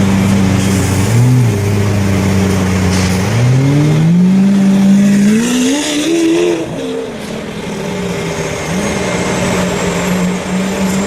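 Lamborghini Aventador V12 running at a steady note, with a short rev blip about a second in, then a long rising rev from about three seconds that peaks past six seconds and falls away, before settling back to a steady note with another brief blip near the end.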